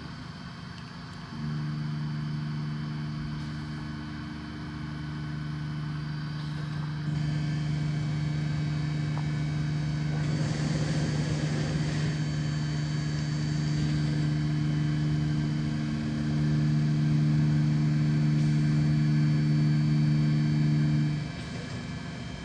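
DVF 5000 five-axis CNC machining centre's spindle running at a steady pitch, starting about a second in and stopping suddenly near the end, with a hiss partway through.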